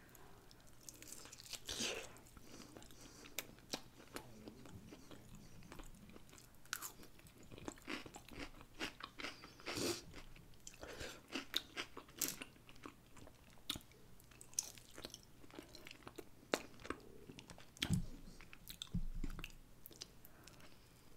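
Close-miked chewing and biting of barbecue-sauced pork ribs: a string of short, irregular mouth clicks and bites.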